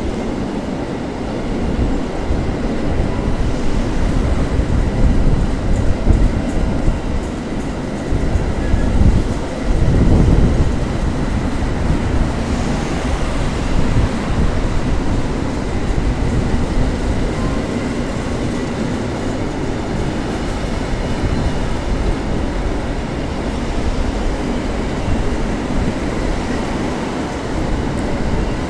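Empty double-deck car-transporter freight wagons rolling past: a steady rumble of steel wheels on the rails with clickety-clack, swelling louder about five to ten seconds in.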